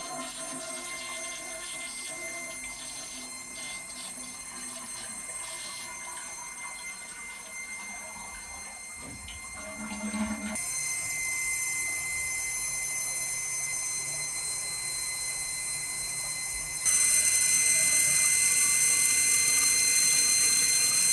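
The original fill valve of an early-1990s toilet making a terrible noise as the tank refills after a flush: a steady, high-pitched whine of several tones. It gets louder about ten seconds in and much louder near the end. The owner puts the noise down to air getting through the old valve as water passes through it.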